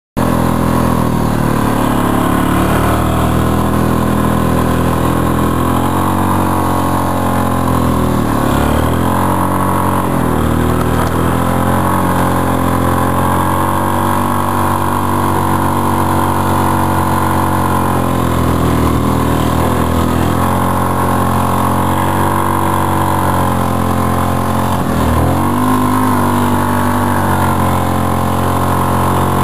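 An engine running steadily, its pitch dipping briefly about eight seconds in and again near twenty-five seconds, as if under changing load.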